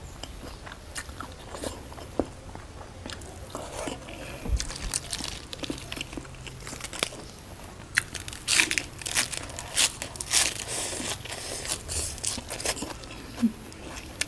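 Close-up eating sounds: soft chewing of rice noodles with small wet clicks, then crisp crunching bites and chewing of a fresh lettuce leaf, dense and loud from about eight seconds in.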